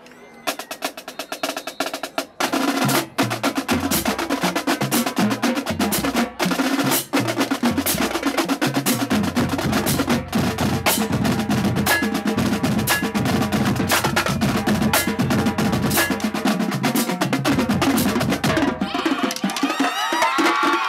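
Marching drumline playing a fast cadence of rapid snare strikes and rolls over deep bass drums that step between pitches, starting softly and coming in loud about two seconds in. Near the end the drumming thins out and a crowd cheers and whistles.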